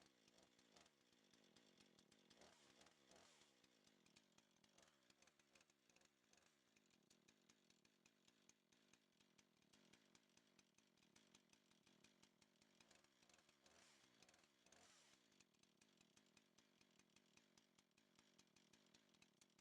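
Faint two-stroke chainsaw engine running after being started from a flooded condition, swelling louder briefly twice.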